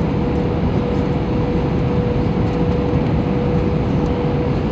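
Airbus A321 cabin noise: a steady, dense rush of engine drone and airflow with one steady tone running through it.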